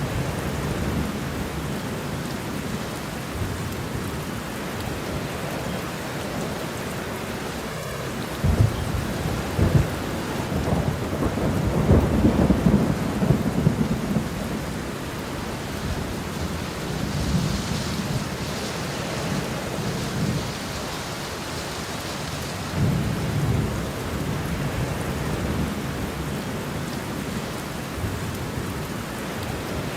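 Steady heavy rain with rolling thunder, the rumbles swelling loudest in the middle and once more later on.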